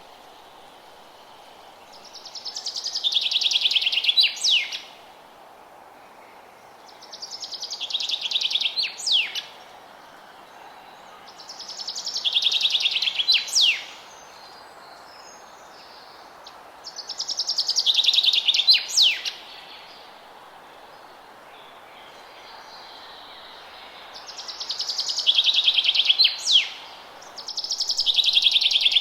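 A songbird sings the same song about six times, every four to five seconds. Each song is a fast, high trill that drops in pitch partway through and ends in a quick flourish of sharp sweeping notes. A faint steady background hiss runs underneath.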